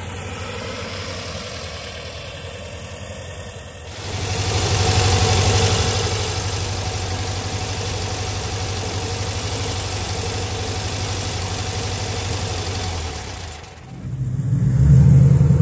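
Volkswagen Beetle's air-cooled flat-four idling at the tailpipe, swelling briefly about four seconds in and then running steadily. Near the end it gives way to a louder, deeper engine rumble from a Chevrolet Camaro.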